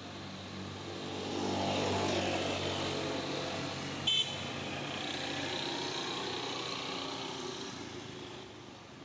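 A motor vehicle passes by, its engine getting louder and then fading away, with a short horn toot about four seconds in.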